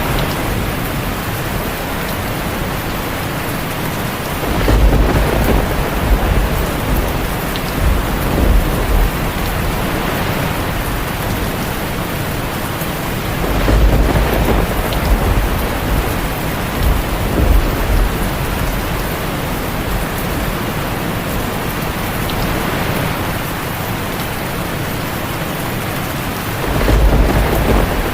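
Heavy rain drumming steadily on a tin roof, with deep rolls of thunder rumbling in three times: about five seconds in, midway, and near the end.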